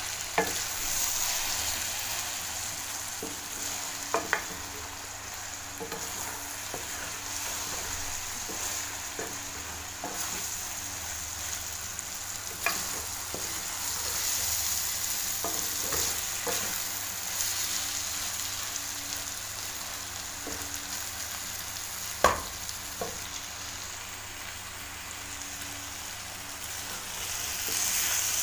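Potatoes and egg frying with a steady sizzle in a metal pan while a spatula stirs and turns them, with a few sharp knocks of the spatula against the pan, the loudest about 22 seconds in.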